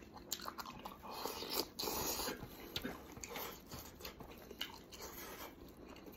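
Close mouth sounds of a man chewing braised pig's head meat: a run of wet smacks and clicks, a little louder about two seconds in.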